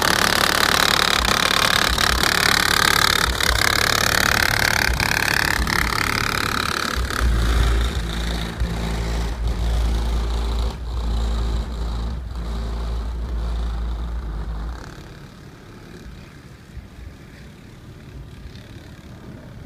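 A car with four SKAR Audio 10-inch subwoofers driving off, deep bass booming over its engine as it accelerates. The sound drops off sharply about three-quarters of the way through.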